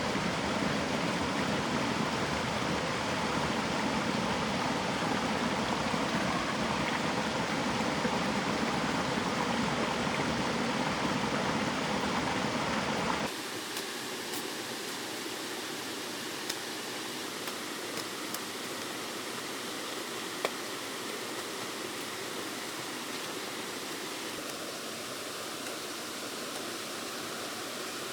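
Steady rushing noise of running water. About 13 seconds in it cuts off abruptly to a quieter, thinner steady hiss with a few faint clicks.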